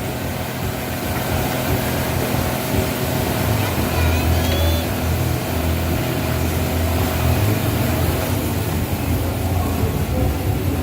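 Diesel pickup truck engine running steadily, with a deep low rumble that swells from about four seconds in and eases off a few seconds later.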